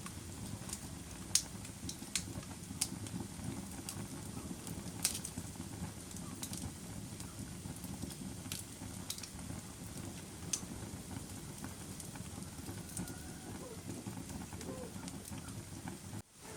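Wood fire burning in a fireplace: a low, steady rush of flames with sharp crackles and pops at irregular moments. The sound cuts out for an instant near the end.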